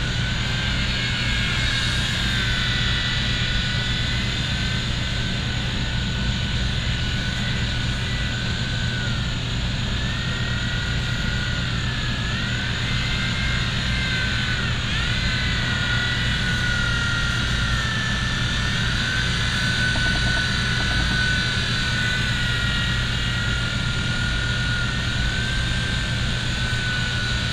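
Small electric motor and rotor of a V911 micro RC helicopter whining in flight, the pitch rising and falling as the throttle changes, with a few short dips about halfway through and near the end. A steady low rumble runs underneath.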